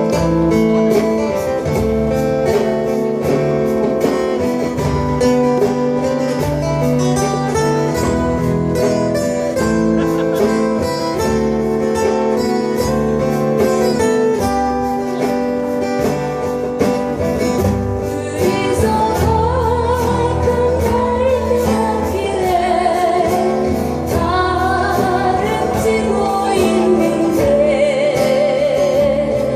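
Live acoustic-guitar band playing a slow ballad: a steady strummed guitar accompaniment under held chords. About two-thirds of the way through, a singing voice with vibrato comes in over it.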